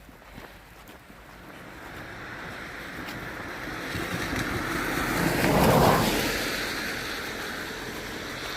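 A car driving past: tyre and engine noise grows louder, peaks about six seconds in, then fades away.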